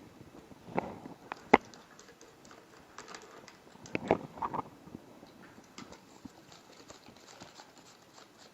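Scattered light clicks and knocks from demonstration gear being handled, the sharpest about a second and a half in and a short cluster about four seconds in.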